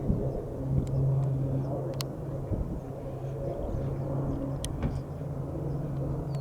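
A vehicle engine running, with a low steady hum that drops out and returns every second or two over a rumble, and a few scattered clicks.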